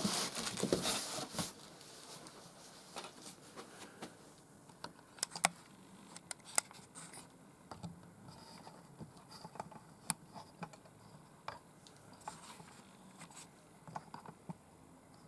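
Packing being handled: a burst of rustling in the first second or so, then sparse light clicks and taps.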